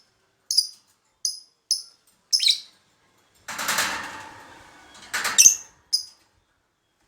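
Lovebird giving short, shrill single chirps, about six of them spaced half a second to a second apart. A rustling noise lasting about a second comes in the middle.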